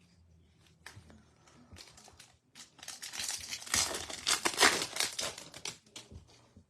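A foil trading-card pack wrapper being torn open and crinkled, with a few faint clicks first. The crackle runs for about three seconds in the middle and is loudest near its end.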